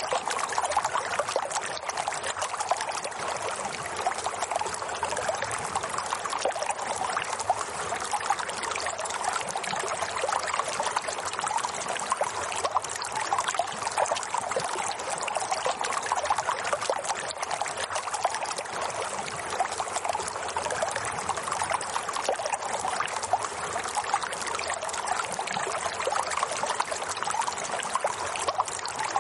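Water running steadily with a dense trickling, splashing texture, as of a small stream or brook.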